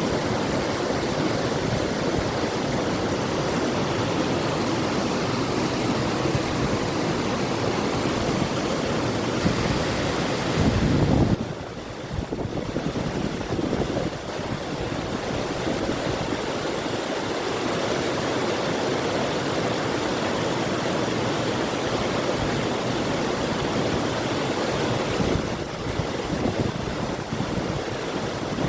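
River water rushing steadily, with wind. About eleven seconds in a louder low rumble swells briefly, then the sound drops for a moment before settling back.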